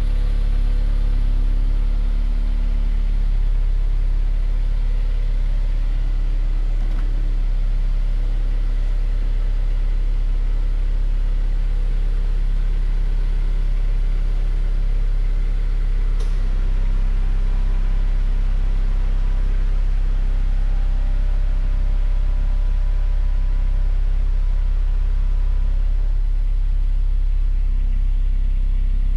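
Honda S2000's inline-four engine idling steadily, an even low hum.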